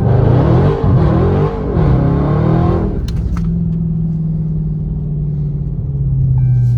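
Charger Scat Pack's 392 HEMI V8 launched hard from a stop on wet pavement: the revs surge and drop several times in the first three seconds as the rear tyres spin without grip. The engine then settles to a steady, lower drone.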